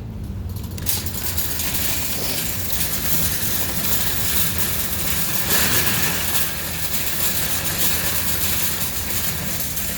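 A line of shopping carts rolling over parking-lot pavement, wheels and wire baskets rattling steadily; it starts about a second in.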